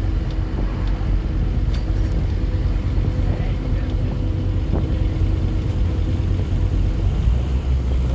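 Scania N230UD OmniCity double-decker bus on the move, heard from on board: its diesel engine and road noise give a steady low rumble. A faint steady whine runs alongside and drops away about seven seconds in, as the low rumble changes.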